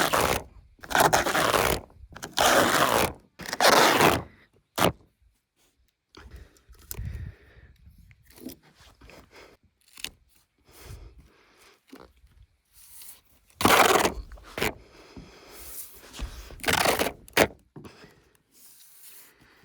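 Seam tape being worked onto subfloor sheathing: four loud rasping, tearing strokes in quick succession, then quieter scraping and handling, with two more loud strokes a few seconds before the end.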